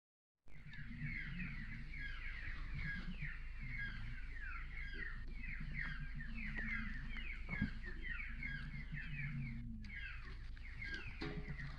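Pigeons cooing in a low, pulsing murmur under a dense, steady chorus of quick, high bird chirps.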